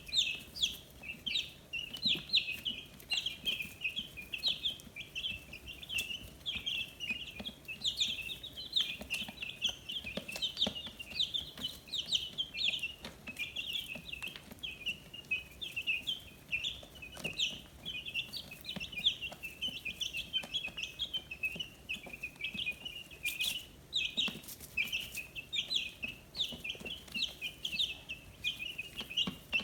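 A group of fifteen-day-old chicks peeping: a dense, continuous chorus of short, high chirps from many birds at once, with a few sharp ticks here and there.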